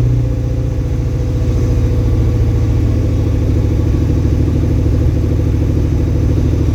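A vehicle engine idling steadily, its pitch dipping slightly just after the start and then holding.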